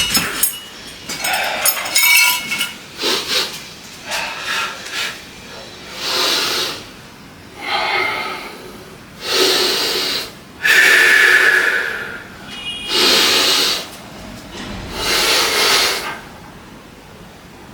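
Metal weights clinking for the first few seconds, then a person's heavy breaths, about one every one and a half to two seconds, as during a set of weight-training repetitions.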